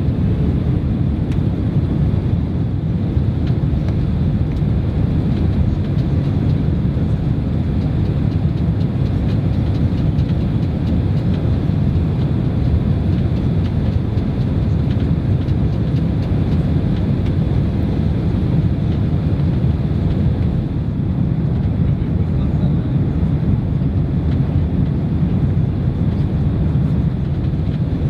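Steady loud roar of a Boeing 767-300 heard from inside the economy cabin, with the engines running and a deep, even rumble and no distinct events.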